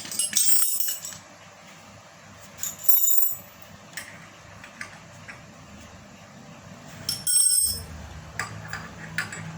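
Metal parts and hand tools of a meat-grinder pellet machine clinking and knocking as they are handled, a few sharp strikes with short ringing. A low steady hum starts near the end.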